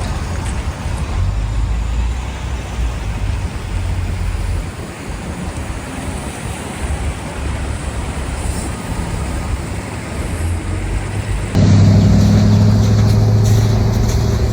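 Outdoor street noise: a steady low rumble. About three-quarters of the way through it jumps louder, to a low droning hum.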